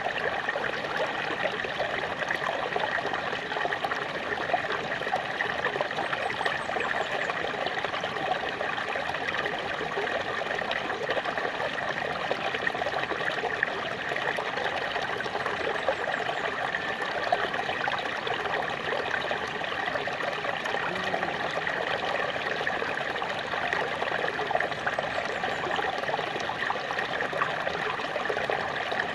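Small waterfall splashing and trickling steadily, a continuous rush of falling water with fine splashing detail.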